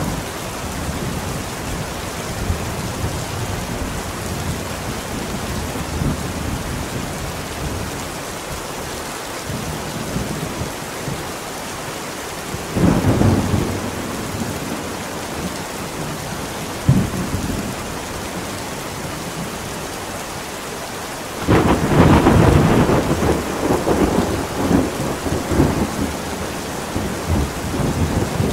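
Heavy steady rain with thunder: a crack about 13 seconds in, a short one near 17 seconds, then a sudden loud clap about 21 seconds in that rolls on rumbling to the end.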